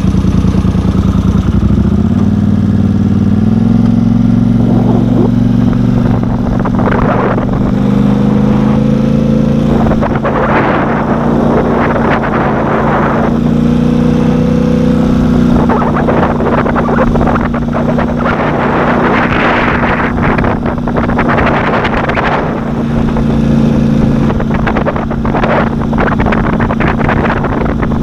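The engine of the vehicle "Big Red" running steadily under way, stepping up in pitch about two seconds in. Patches of rushing noise come and go over the engine note.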